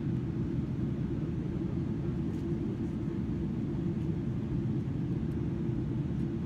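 Steady low rumble inside the cabin of a Boeing 777-300ER in flight: the noise of its GE90 jet engines and of air rushing past the fuselage, at an even level.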